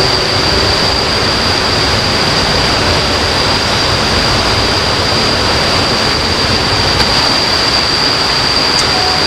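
River water rushing steadily, with a steady high-pitched whine over it.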